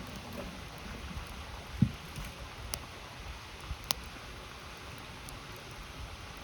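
Wood campfire crackling, with a few sharp pops and a low thump, over the steady rush of a river.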